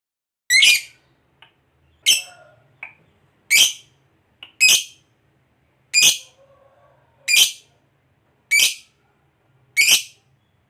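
Lovebird giving eight short, sharp, high-pitched calls, about one every second and a quarter.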